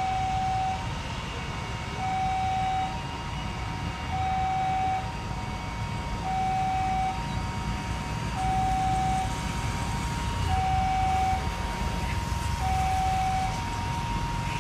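A two-tone hi-lo siren alternating steadily between a lower and a higher note about once a second, over a low rumble.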